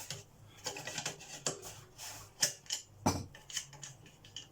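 Irregular clicks, scrapes and knocks of plastic and metal parts being worked as the lower handle of a Hoover Junior U1036 upright vacuum cleaner is taken off. The sharpest knock comes about three seconds in.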